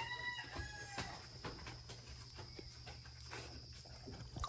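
A short pitched animal call, about a second long at the start, followed by faint scattered clicks and rustles.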